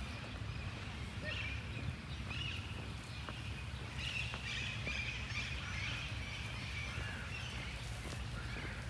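Many small birds chirping and twittering in short, overlapping calls, busiest from about halfway through, over a low steady rumble.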